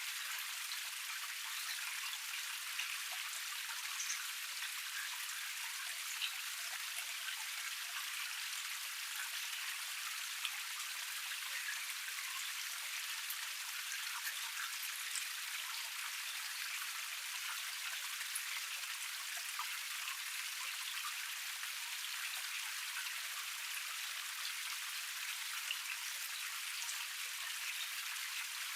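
Small woodland cascade: water running and splashing over a low tier in a steady hiss, dotted with small drips and spatters.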